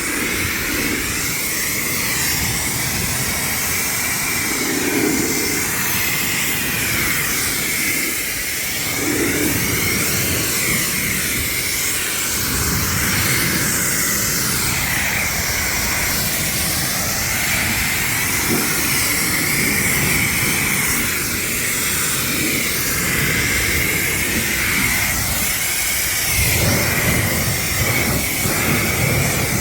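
Ryobi pressure washer running with its water jet spraying: a steady hiss with a wavering high whine.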